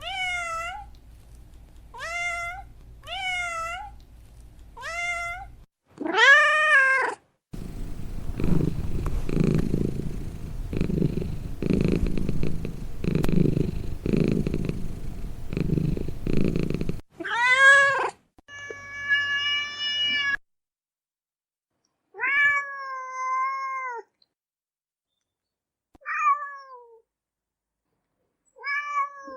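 Domestic cat meowing: a run of short meows, then a stretch of low, pulsing purring, then more meows, some short and one longer and drawn out.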